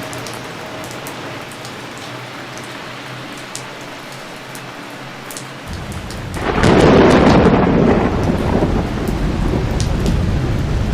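Heavy monsoon rain falling steadily, then a thunderclap about halfway through: a low rumble swells into a loud crash that keeps rolling on under the rain.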